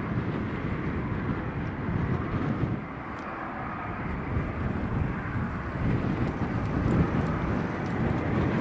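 Airliner engine noise mixed with gusty wind buffeting the microphone, a steady roar with a rumble that swells and dips.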